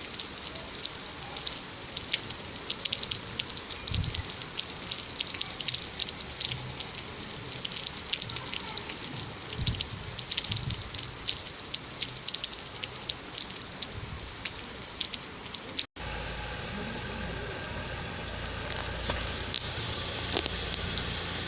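Rain falling, heard as a dense crackle of many small drop clicks. About 16 seconds in the sound cuts off for an instant and gives way to a steadier rushing rain with a low rumble underneath.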